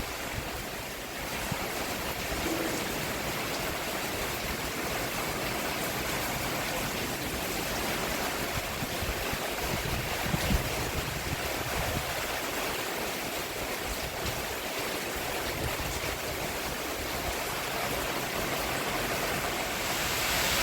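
Steady rain falling on a roof: an even hiss of many drops, with a few louder single drops here and there.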